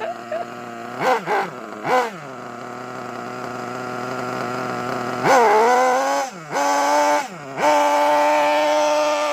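Small nitro engine of a Caster Racing RC buggy running, blipped up briefly twice near the start, then held at higher revs from about five seconds in, with two quick drops in pitch before settling high again.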